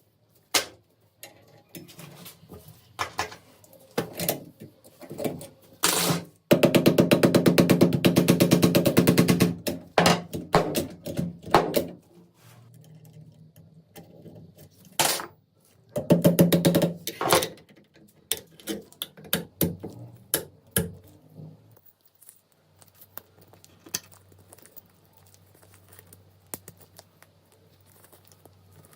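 Clicks and knocks of hard parts being handled, with two bursts of rapid, fast-repeating rattling, the first about three seconds long and the second shorter, a little past the middle.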